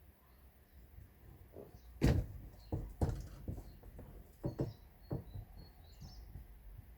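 About eight irregular knocks and thuds, the loudest about two seconds in, with birds chirping faintly behind them.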